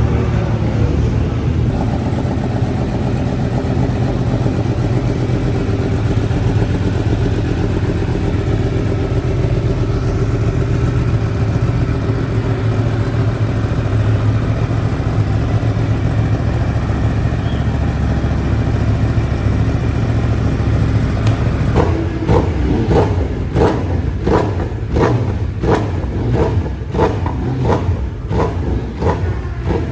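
Yamaha R1's crossplane inline-four engine running at low speed with a steady low rumble; about two-thirds of the way in the sound turns into a regular pulsing, about one and a half beats a second.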